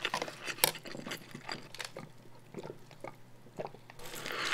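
Close-miked chewing of a fried chicken burger, with soft wet smacks and small clicks. Near the end a new bite into the burger begins with a crunch of the breaded patty.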